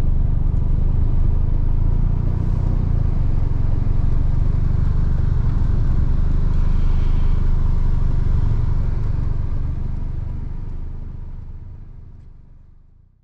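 Car engine running steadily, with road noise around it, fading out over the last few seconds.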